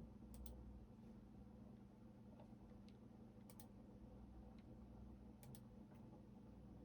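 Faint, sparse clicks of computer keys, a few single and several in quick pairs, over a low steady hum.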